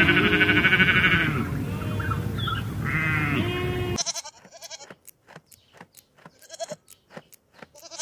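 A flock of sheep bleating, several voices overlapping, with one loud bleat held for about a second at the start. About halfway the bleating stops abruptly and gives way to a goat grazing: faint crunching and tearing of grass in short clicks.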